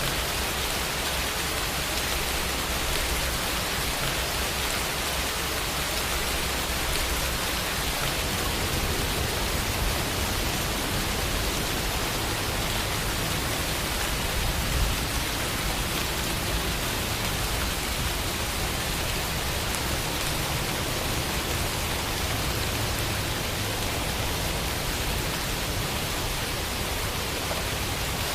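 Steady rain falling, an even hiss with scattered drop ticks, with one slightly louder drop or tap about halfway through.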